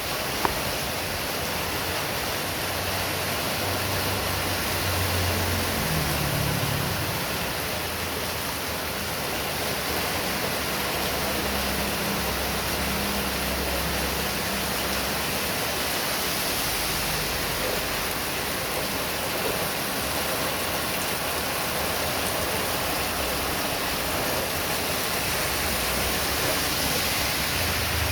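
Heavy rain falling steadily, a dense even hiss, with a low rumble coming and going underneath.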